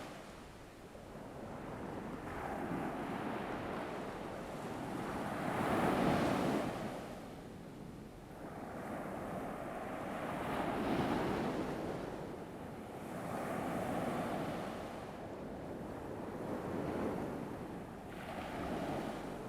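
Ocean waves washing in and drawing back, the surf swelling and fading in slow surges every three to five seconds, with a light breeze.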